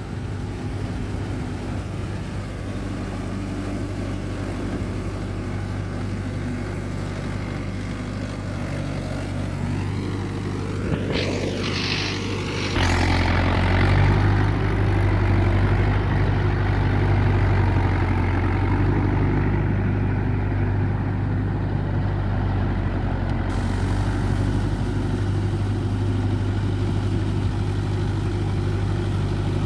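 Mahindra Yuvo Tech+ 585 tractor's diesel engine running steadily. About thirteen seconds in, the engine note abruptly grows louder and stays so; just before this, a brief rising and falling whine sweeps up high.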